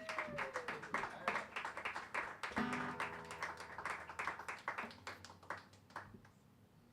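Small audience clapping after a song, the applause thinning out and stopping near the end.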